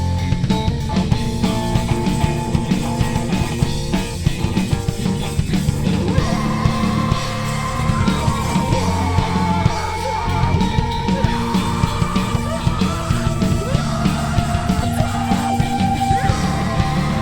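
Live heavy rock band playing: distorted guitars, bass and a driving drum kit. About six seconds in, a higher sustained melody line comes in over the band.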